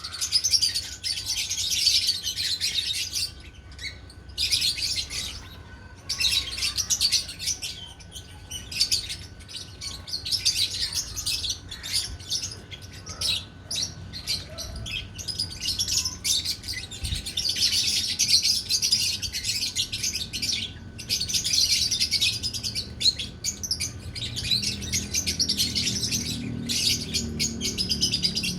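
Several lovebirds chattering: rapid, shrill chirping in long bouts broken by brief pauses.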